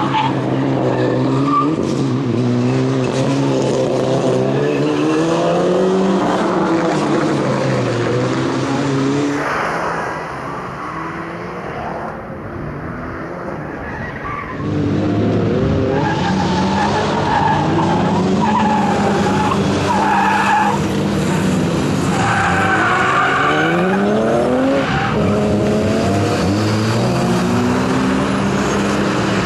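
Ford Focus RS Mk1's turbocharged 2.0-litre four-cylinder engine driven hard, its pitch climbing and dropping again and again through gear changes and braking, with tyres squealing through the corners. It drops quieter for a few seconds in the middle as the car moves farther off.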